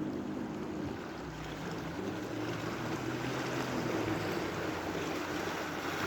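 A boat engine running steadily with a low hum, over the rush of sea water and wind.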